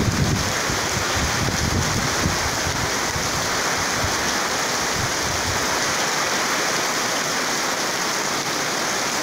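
Heavy tropical downpour: a steady, dense hiss of rain falling on a flooded street and rooftops.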